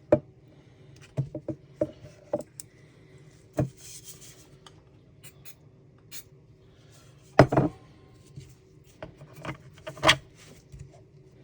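3D-printed PETG plastic parts being handled and pressed together: scattered clicks and knocks. The loudest come in a cluster about seven and a half seconds in and again about ten seconds in, with a brief hiss near four seconds.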